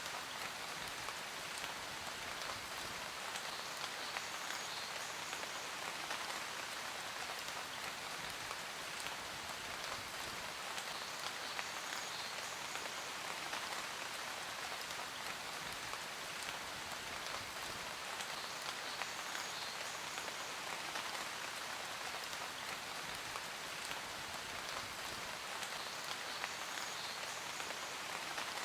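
Steady rain falling: an even hiss dotted with countless small drop ticks.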